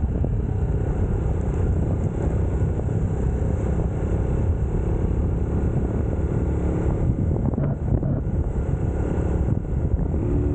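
UM Scrambler X motorcycle engine running steadily under way, with a continuous low rumble of engine and road noise.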